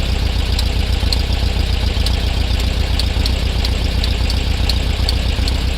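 Volkswagen Beetle's air-cooled flat-four engine idling steadily, with a sharp popping tick about two to three times a second, somewhat irregular. The tick is an odd noise of unknown cause from around the rear left of the car.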